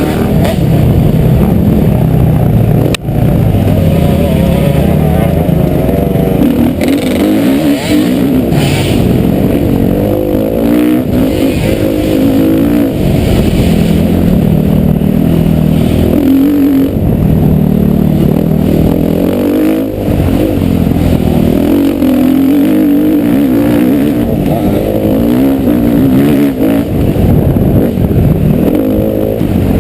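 Motocross bike engine revving hard and easing off again and again as it is ridden, its pitch rising and falling with each throttle change.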